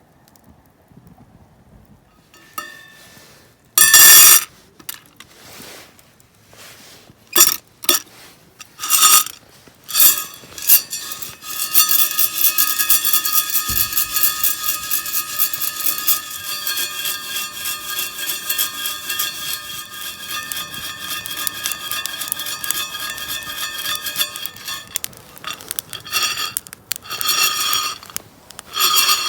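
Metal camp cookware being handled: several sharp clinks, then a long run of rapid scraping and rattling with a metallic ring, and a few more clinks near the end.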